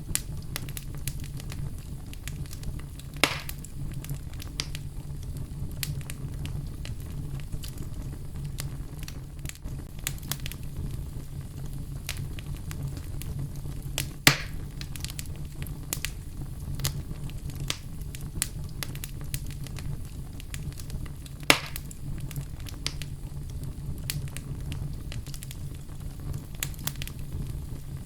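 Fireplace fire crackling steadily: many small snaps over a low, even rumble, with three louder pops, about 3, 14 and 21 seconds in.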